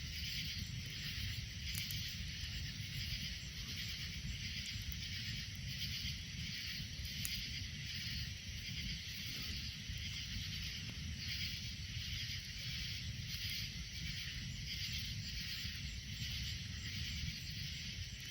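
Steady outdoor insect chorus, a pulsing high-pitched buzz, over a low rumble.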